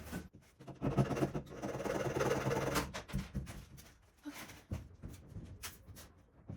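Broken hacksaw blade sawing back and forth at a screw inside a caravan wall: a rasping run of strokes lasting about two seconds, followed by scattered scrapes and knocks.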